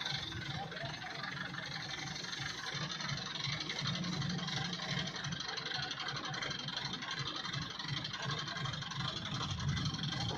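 An engine running steadily at idle, with a low pulsing rumble.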